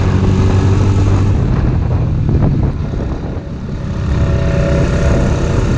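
ATV engine running under way, steady at first, easing off about three seconds in and then picking up again.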